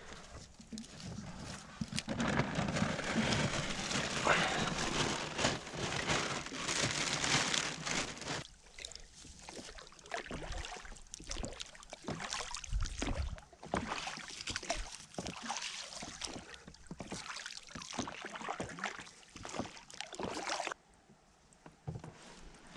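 Water splashing and irregular knocks and handling noise in a small boat while a fishing net is set from it. The sound dies down sharply near the end.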